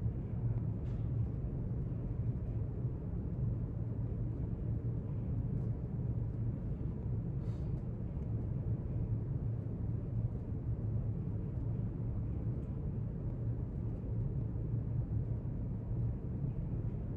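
Steady low rumble of quiet library room ambience, with a few faint soft clicks about a second in, midway and near the end.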